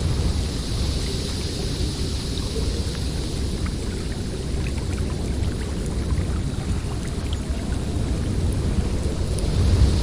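Snowstorm wind blowing steadily, a deep rumble under a higher hiss that eases off in the middle and swells again near the end.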